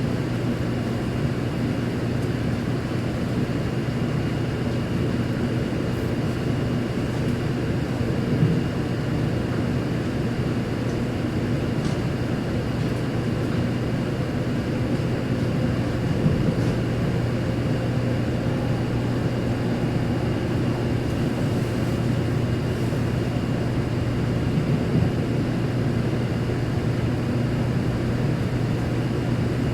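Interior running noise of a 0 series Shinkansen car: a steady low drone and rushing noise with a faint constant high whine, the level unchanging throughout.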